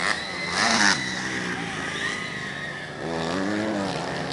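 Motocross motorcycle engines revving, the pitch rising and falling as the bikes accelerate and back off.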